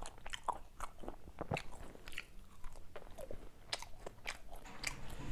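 Close-miked chewing of crinkle-cut fries: quiet, irregular short clicks and crackles of the mouth working on the food.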